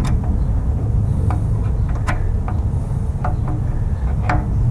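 Light metal clicks and clinks, about half a dozen spread out, as a timing chain and sprockets are handled and lined up on the engine, over a steady low rumble.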